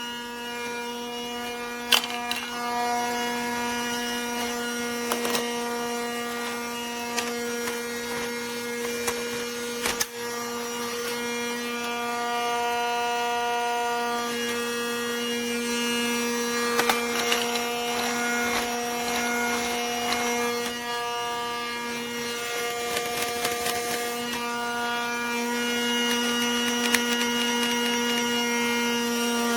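Small battery motor of a Casdon Dyson toy cordless vacuum running with a steady hum, its upper overtones fading in and out, with a few sharp clicks along the way.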